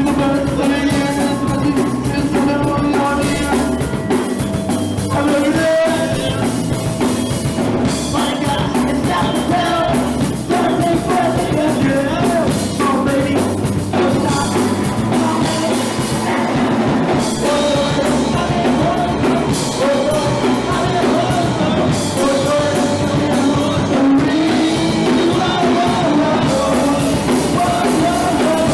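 Punk rock band playing live, loud, with distorted guitars, drum kit and shouted singing.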